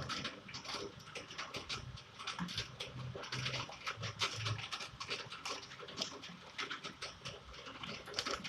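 Hail and rain hitting a hard surface: a dense, irregular pattering of sharp clicks, with a few short low sounds underneath about three to four and a half seconds in.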